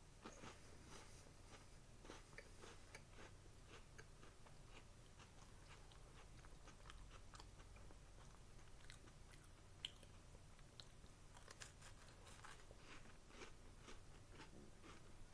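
Faint close-up chewing and crunching of a Doppelkeks biscuit, with small scattered crunches and one sharper click about ten seconds in.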